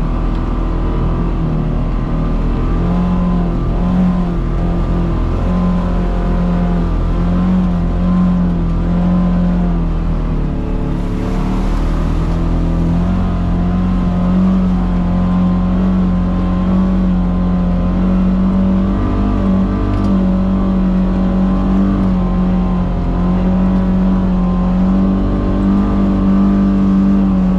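Polaris Xpedition side-by-side engine running under way on a trail, its pitch rising and falling with the throttle. A brief rush of noise about eleven seconds in.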